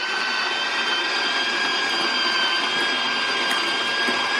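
Built-in conical burr grinder of a De'Longhi La Specialista espresso machine running steadily with a high motor whine, grinding a double dose of coffee beans into the portafilter.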